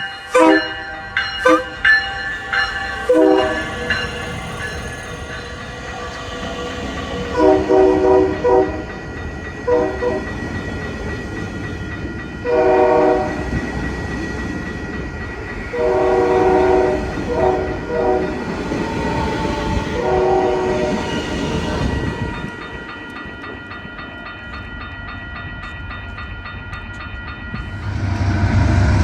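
Train horn sounding a series of blasts, some long and some short. Wheel clicks over rail joints come early, and a loud low rumble of an approaching train builds near the end.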